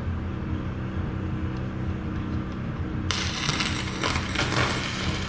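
A steady low hum, then about three seconds in a stick-welding arc is struck and settles into a continuous crackling hiss as a bucket tooth is welded to its shank.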